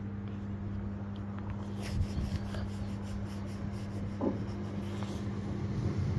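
Class 387 electric multiple unit approaching, a steady low hum with rumble building toward the end, with a few faint clicks about two seconds in and a brief squeak a little after four seconds.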